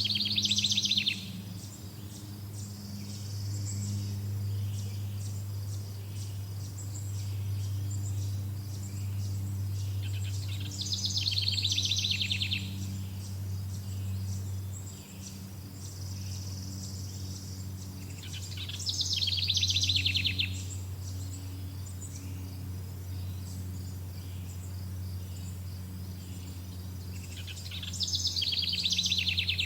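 A bird repeating a short, fast trilled song phrase about every nine seconds, four times, over fainter insect chirping and a steady low hum.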